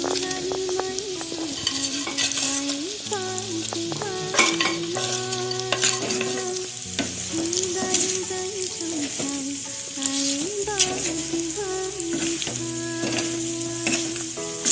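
Food sizzling and frying in a pan, with stirring and occasional clicks of utensils, over background music with a melody and bass line.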